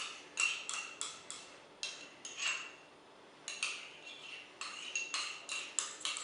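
A utensil clinking and scraping against a dish as sauce is spooned into a bowl of slaw: about a dozen irregular sharp clinks, each with a short ring, with a brief lull about halfway through.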